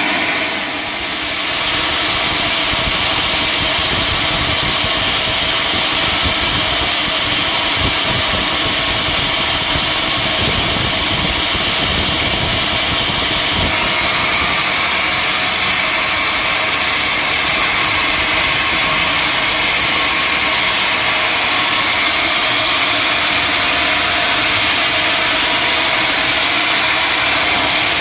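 Sawmill machinery running steadily, a continuous loud mechanical noise with a brief dip about a second in.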